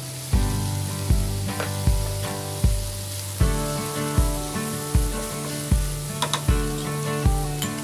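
Vegetables sizzling in a hot frying pan as they are stirred with a wooden spatula, under background music with a steady beat.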